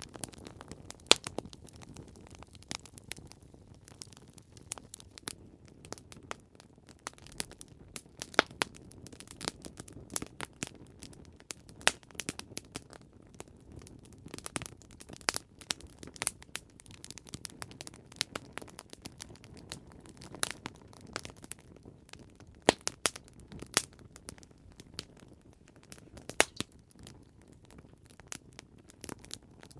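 Campfire burning with irregular crackles and sharp pops over a low, steady hiss of flames, a few pops louder than the rest.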